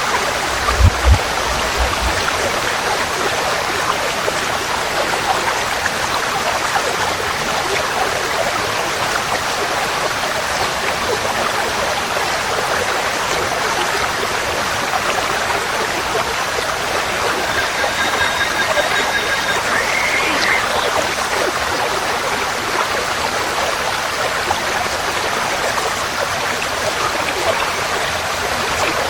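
Forest stream flowing, a steady rush of water. A few low thumps come about a second in, and a short faint birdcall is heard about two-thirds of the way through.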